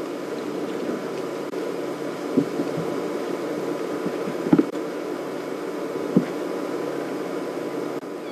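A steady, even hum with a faint hiss, broken by three short, dull knocks about two seconds apart, the middle one the loudest.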